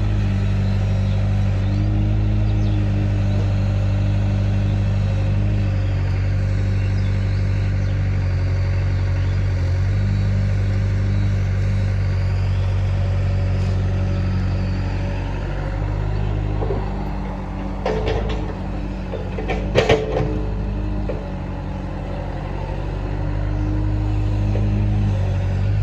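Heavy diesel engines of a tractor and a JCB loader running steadily while soil is loaded into the tractor's trolley. The engine sound eases a little past the middle, and a few sharp knocks and clanks come in quick succession there.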